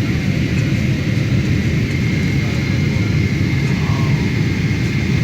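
Steady low rumble of a Boeing 777-300ER jet airliner, with a thin, steady high whine above it.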